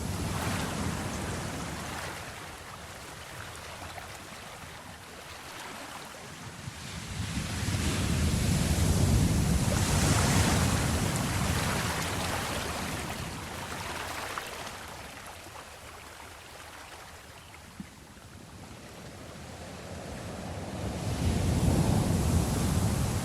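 Ocean surf: waves breaking and washing back, the rush swelling and fading slowly. The surf peaks near the start, about ten seconds in, and again near the end.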